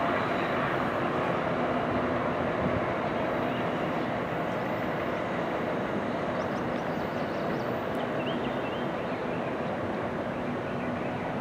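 NJ Transit MultiLevel commuter train running away on the rails, a steady rumble of wheels and cars that slowly fades as it recedes.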